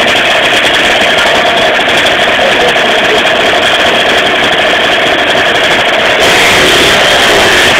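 Two-stroke 50cc moped engine built with Pro Race tuning parts, running steadily; it gets a little louder and brighter about six seconds in.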